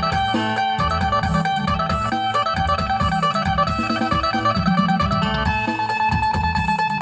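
Phin, the Thai Isan plucked lute, playing a quick melody of plucked notes over steady drone tones, with a repeating bass line beneath.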